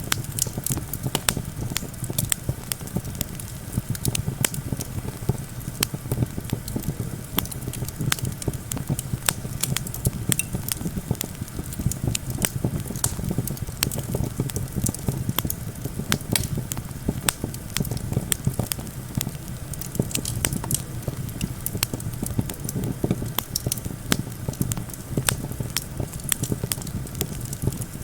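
Campfire burning, crackling with frequent irregular sharp pops, over a steady low rumble of wind.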